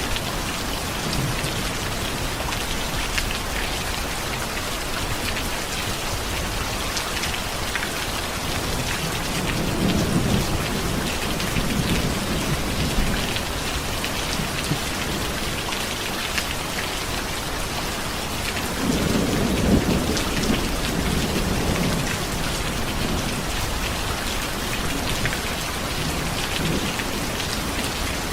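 Steady heavy rain falling, with two low rolls of thunder, one about ten seconds in and a louder one about nineteen seconds in.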